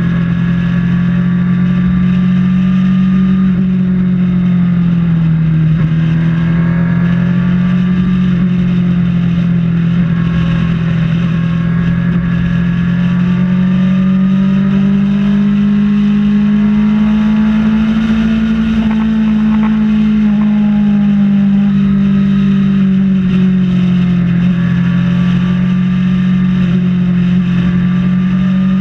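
Kawasaki Ninja ZX-6R's inline-four engine running at a steady cruising pitch, easing off briefly early on, climbing gradually to its highest pitch about two-thirds of the way through, then settling back.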